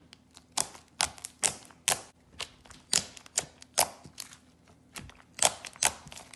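Thick pink slime being poked and squeezed by fingers, giving sharp, irregular pops and clicks, about two or three a second.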